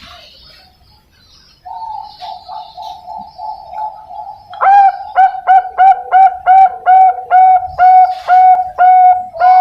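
Young Bangkok-strain zebra dove cooing. About a second and a half in it gives a quick run of soft notes, then from about halfway a louder, even series of ringing coos, roughly three a second.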